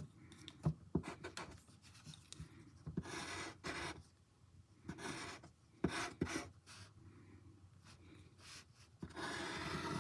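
Drawing tool scratching in short, irregular bursts of quick strokes, with a few light taps in between, as fluffy fur is sketched in.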